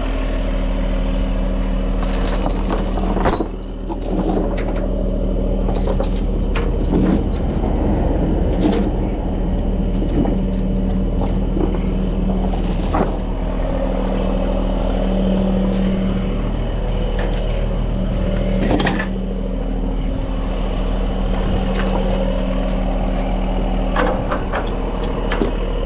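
Heavy truck's diesel engine running steadily, driving the hydraulics as a Landoll trailer's bed tilts down, with a few sharp metal clanks about 3 s, 13 s and 19 s in.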